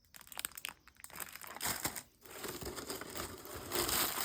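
Packaging being handled and unwrapped by hand, crinkling: scattered sharp crackles at first, then a denser rustling from about a second and a half in that grows louder toward the end.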